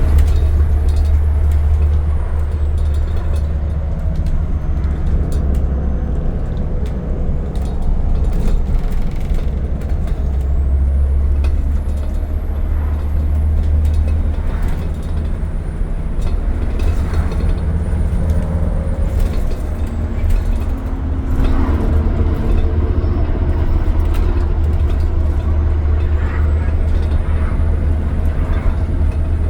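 Scania N230UD double-decker bus on the move, heard on board: its diesel engine and the road give a steady, loud low drone, with occasional short knocks and rattles.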